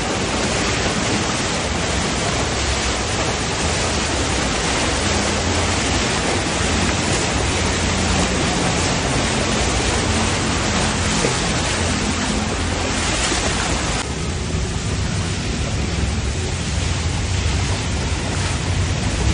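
Heavy rain pouring down as a loud, steady hiss. About fourteen seconds in, the hiss turns duller.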